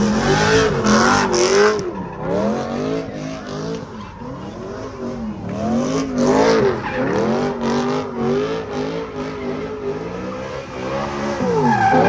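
Car engine revving up and down again and again while its tyres screech, as in a car spinning donuts; the tyre screech is loudest near the start and about six seconds in.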